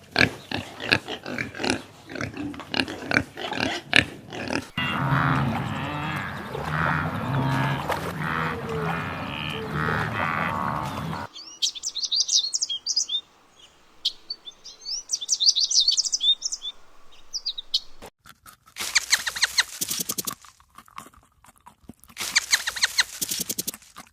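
A run of different animal calls: low, dense grunting and squealing for the first half, then high chirping calls, then two short bursts of fast rattling calls near the end.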